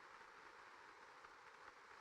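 Faint steady rain: an even hiss with scattered light droplet ticks.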